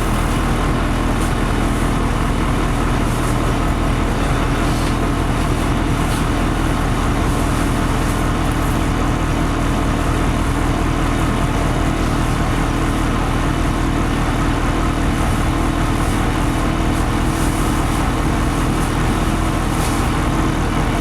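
LiAZ-5256 city bus running, heard from inside the passenger cabin: a steady engine hum with an even background noise and no change in pitch.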